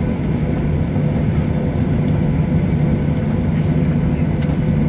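Boeing 737-700's CFM56 jet engines and airframe heard from inside the passenger cabin: a loud, steady low rumble.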